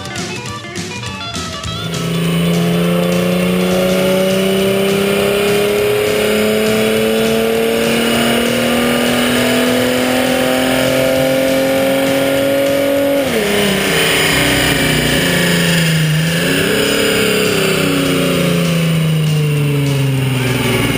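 Dodge Challenger with a Pypes Street Pro exhaust, cold air intake and tune, run hard on a chassis dyno. The engine pitch climbs steadily for about ten seconds, drops sharply when the throttle is released, rises briefly once more, and then winds down.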